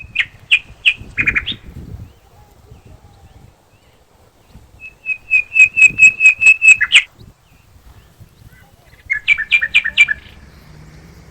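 A songbird singing three phrases, each a quick run of short, sharp repeated notes. The middle phrase is the longest and loudest, about ten notes ending in a sharp final note.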